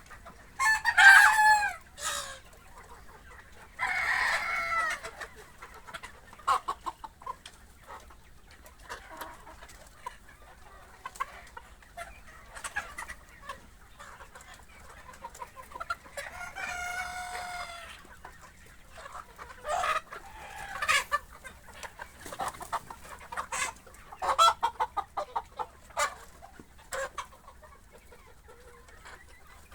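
Sonali chickens on the farm: roosters crowing several times, with long calls about a second in, about four seconds in and around seventeen seconds in, and hens clucking between the crows.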